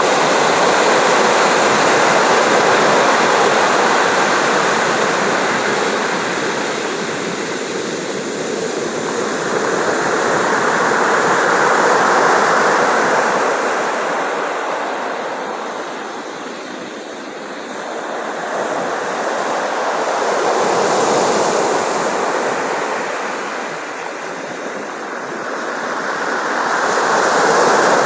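Sea surf: a steady wash of waves that swells and ebbs in slow surges about every eight or nine seconds.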